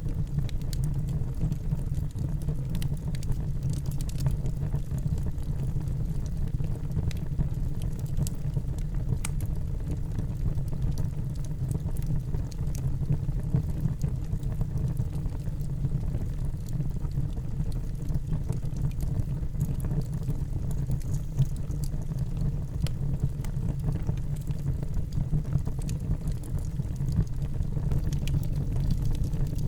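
Wood fire burning in a fireplace: a steady low rumble of flames with many scattered small crackles and pops.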